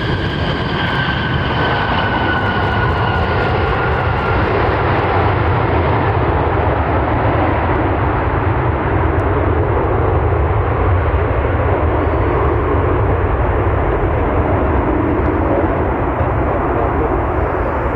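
Jet airliner's engines running loud as it passes, a steady rumble with a whine that falls in pitch over the first few seconds, the higher sound fading as it moves away.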